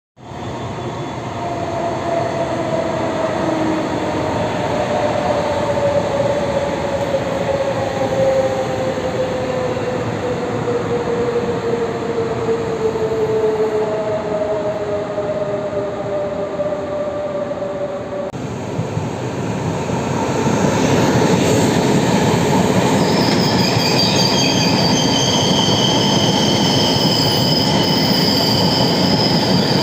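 A Taiwan Railways local commuter train pulling in and slowing to a stop, its whine falling in pitch as it slows. After a cut about 18 seconds in, a Tze-Chiang express train arrives, louder, with high steady wheel and brake squealing.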